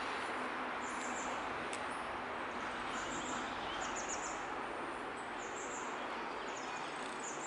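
Birds chirping in short, high clusters every second or so over a steady outdoor hiss.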